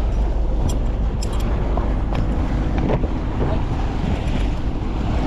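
Wind buffeting the microphone on a small sailing yacht under motor, with a steady low rumble and water washing along the hull.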